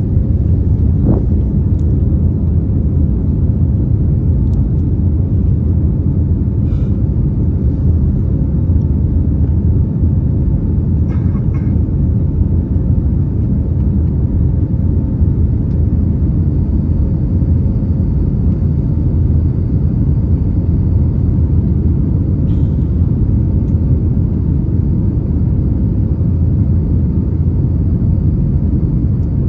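Steady engine drone and deep rumble heard inside the cabin of an Airbus A321neo, with a faint steady hum over it and a few soft clicks.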